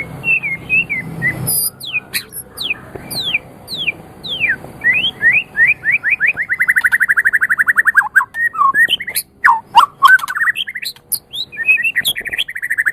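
White-rumped shama (murai batu) singing: a string of clear whistles sliding down in pitch, then a fast even trill of repeated notes. Varied whistled notes follow, with another fast trill starting near the end.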